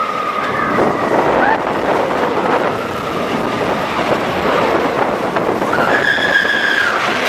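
Roller coaster ride heard from the train: a steady loud rush of wind and rolling track noise, with a long high squeal about six seconds in.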